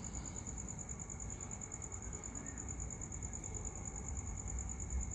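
A cricket chirping in a fast, steady, evenly pulsed high trill, with a low rumble underneath.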